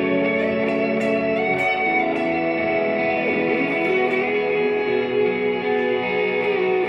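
Electric guitar played through ambient delay and reverb effects: long sustained notes ringing into each other, with one note bending in pitch about three seconds in.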